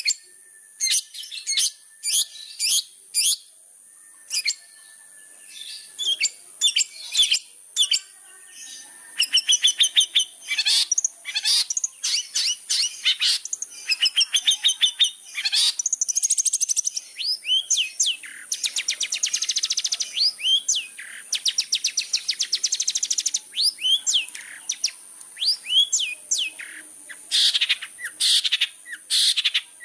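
Long-tailed shrike (cendet) singing a fast, varied chattering song of short sharp notes and quick glides, with rapid buzzy trills about a third of the way in and again past the middle. A steady high-pitched tone runs underneath.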